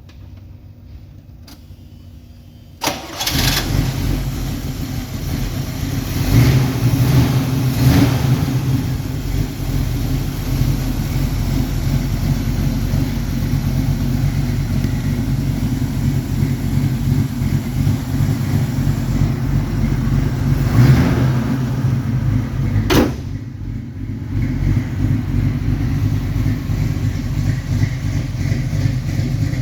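1976 Chevrolet Nova SS engine cranking and starting about three seconds in, then running at idle with a few brief throttle blips. A sharp click comes a little after the middle, and the engine idles on more quietly after it.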